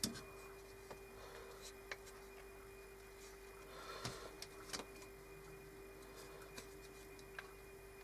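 Faint, irregular clicks and light taps from hands handling the glued plastic coving and wooden pillar, over a steady hum. The loudest click is right at the start, and a couple more cluster about four to five seconds in.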